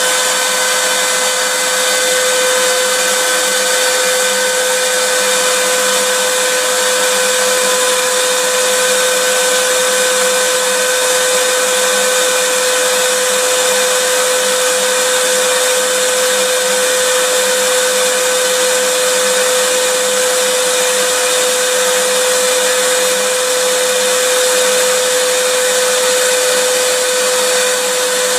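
Vacuum cleaner motor running steadily: a constant airy rush with a steady whine held on one pitch, unchanging throughout.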